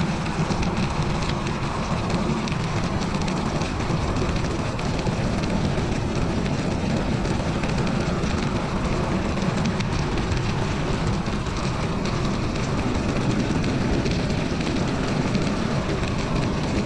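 Steady rumbling noise of a bicycle being ridden on a winter trail: wind on the microphone and tyres rolling over the ground, with a constant patter of small ticks.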